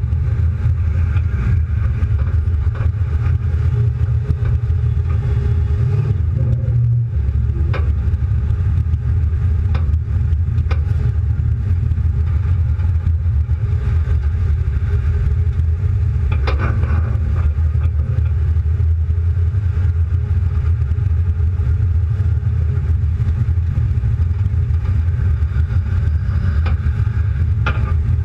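Car engine running with road noise as the car drives slowly, a steady low rumble, broken by a few brief knocks.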